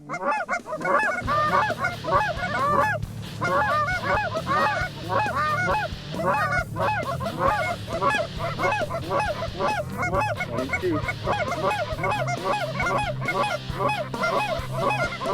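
A flock of geese honking, many short calls overlapping continuously.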